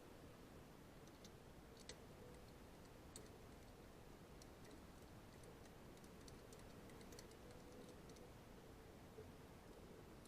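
Near silence with faint, scattered light clicks and ticks, a little more frequent in the second half, over a faint steady hum.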